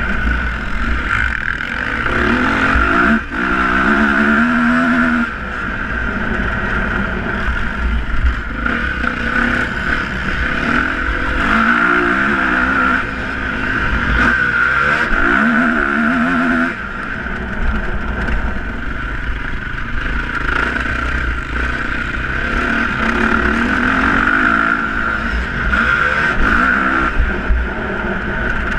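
Motocross bike engines revving and passing, the pitch rising and falling several times over a steady drone of engines and a low rumble.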